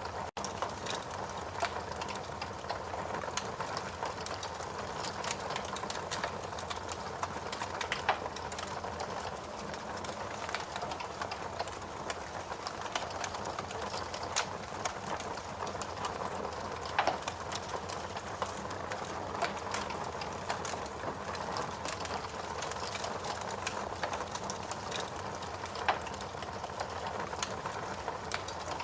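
Wood fire in a fireplace burning with a steady hiss and dense crackling, with a few louder sharp pops scattered through.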